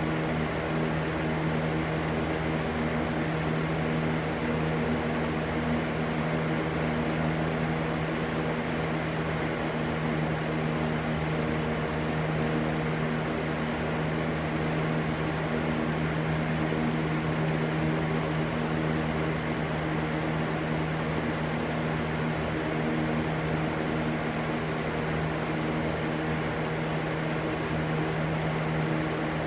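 Steady white noise, an even rushing sound with a constant low hum under it, unchanging throughout.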